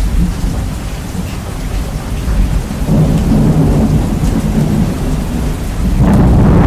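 Heavily bass-boosted, distorted recording of heavy rain with rumbling thunder. The low rumble swells about halfway through and grows louder again near the end.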